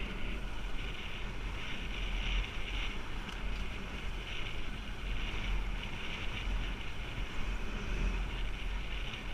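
Steady wind noise buffeting the microphone, with a low rumble underneath, as from a moving motorbike.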